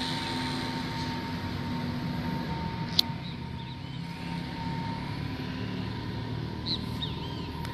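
A steady drone with a held tone, the unexplained evening sound in the sky that is likened to 'trumpets'. There is a sharp click about three seconds in and a few short high chirps.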